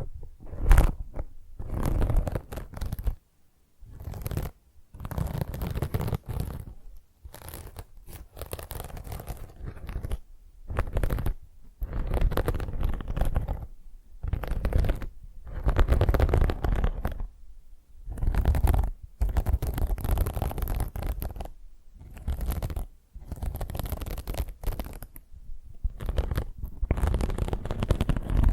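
Scouring sponge scratched and rubbed close to the microphone. The strokes come in irregular bursts of about a second, with short gaps between them, and carry a deep rumbling undertone.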